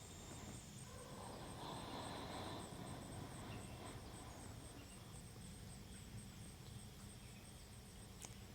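Faint outdoor ambience: insects chirping in a steady high-pitched pulse over a low rumble, with a single sharp click near the end.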